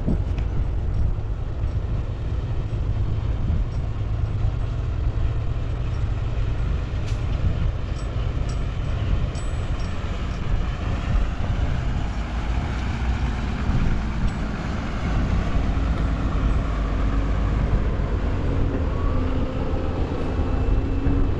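Diesel engine of heavy earthmoving machinery running with a steady low rumble. A few sharp clicks come about a third of the way in, and a whining tone rises and falls near the middle.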